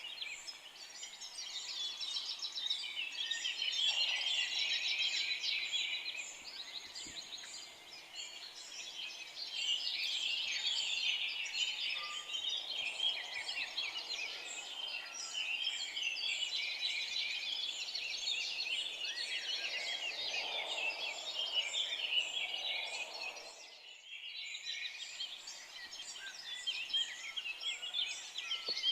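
Dense chorus of many songbirds chirping and trilling over one another, with a brief lull near the end.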